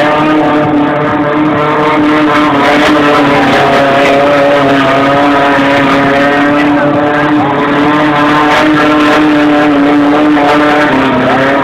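Modified Volkswagen Fusca (Beetle) engine held at high, nearly steady revs through a smoky burnout, with a brief dip in revs near the end.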